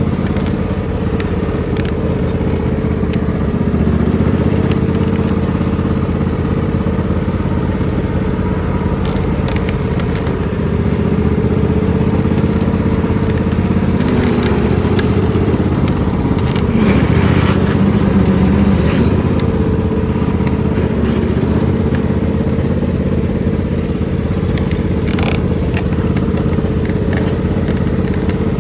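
Riding lawn mower engine running steadily, its pitch wavering slightly up and down, with a brief louder stretch a little past the middle.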